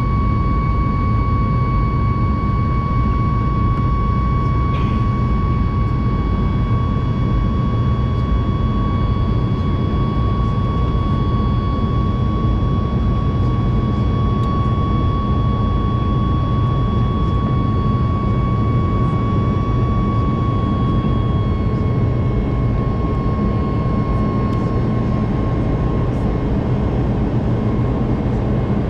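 Boeing 737 MAX 8's CFM LEAP-1B jet engines running steadily: a loud low rumble with a strong, steady high whine on top that eases slightly about two-thirds of the way through.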